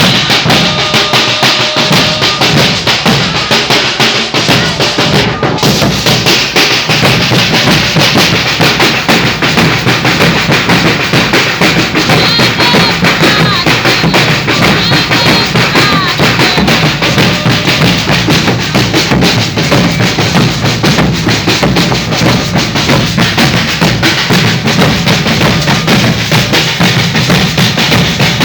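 Maracatu de baque virado drum ensemble playing a steady, dense rhythm: deep alfaia bass drums under driving snare drums.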